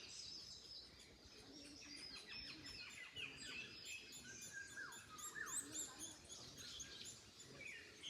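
Several small birds chirping and singing, with many short overlapping calls and downward-sliding whistles, faint against a soft background hiss.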